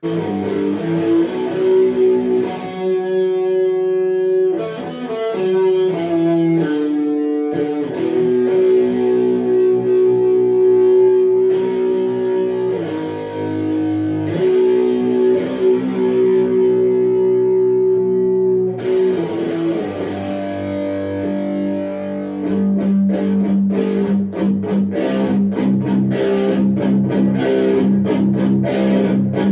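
Electric guitar played through an HM-2 style heavy-metal distortion pedal: ringing distorted chords that change every few seconds, then from about 22 seconds in a fast run of rapidly repeated picked low notes.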